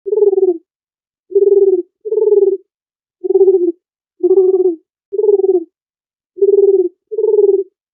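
A dove cooing: eight short, low coos of about half a second each with a slight flutter to them, spaced unevenly, some in quick pairs.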